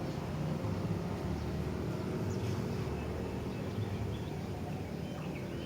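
Steady low rumble of engine-like background noise, with faint short chirps from a sooty-headed bulbul (kutilang) about halfway through and again near the end.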